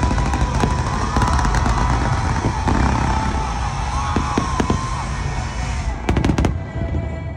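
Fireworks show: many shells bursting and crackling in quick succession over a deep rumble, with music playing underneath. About six seconds in comes a tight cluster of loud bangs, after which the rumble drops away.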